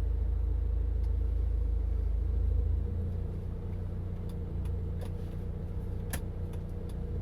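Low rumble of a car heard from inside the cabin as it is driven slowly, with a steady hum; the rumble eases a few seconds in. A few scattered sharp clicks come in the second half.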